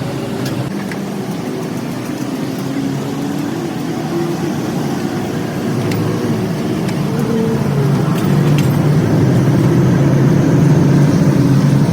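A motor running steadily with a wavering pitch, growing louder over the last few seconds.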